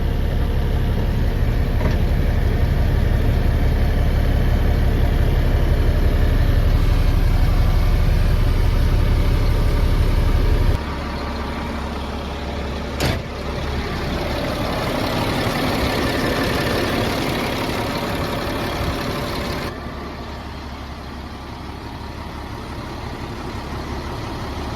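Cat 7.2L diesel engine of a Sterling L7500 dump truck running steadily. Its deep low end drops away abruptly about 11 s in, a sharp click comes about 13 s in, and the sound changes again abruptly near 20 s.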